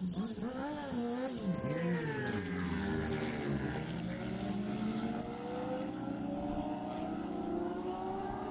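Racing motorcycle engine revved up and down a few times, then pulling away, its pitch climbing steadily as it accelerates.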